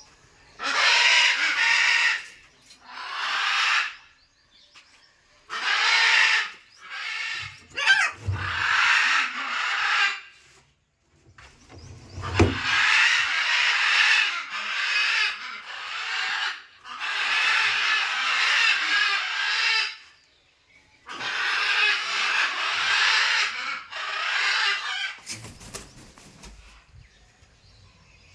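Pet parrot squawking over and over, harsh calls of one to three seconds each with short gaps between them.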